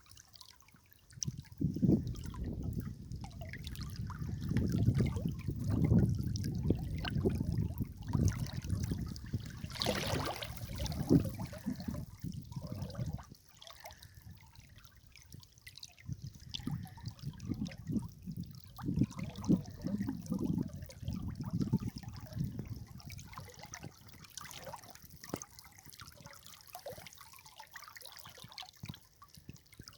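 River water trickling and dribbling over stones, with stretches of heavier low rumbling. One rumbling stretch stops abruptly about 13 seconds in, and it returns more weakly a few seconds later.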